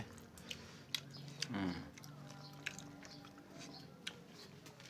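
A person chewing food, with scattered small wet clicks and smacks of the mouth, and a brief hum of the voice about a second and a half in.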